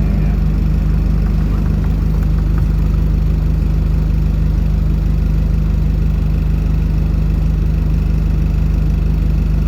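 Bus engine running steadily, a constant low drone with no change in pitch.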